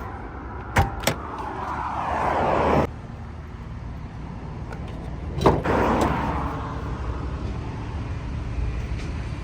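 Road traffic passing, with noise swelling and fading twice, plus two sharp clicks about a second in and a knock around five and a half seconds.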